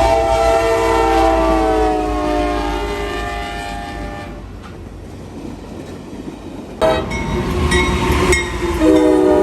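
Locomotive air horn sounding a chord of several tones that slides lower and fades away as the train passes, over a train's rumble. A sudden new sound comes about seven seconds in, and the horn sounds again near the end.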